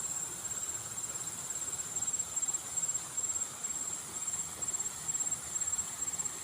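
Insects trilling steadily at a high pitch, the trill swelling in short pulses about twice a second.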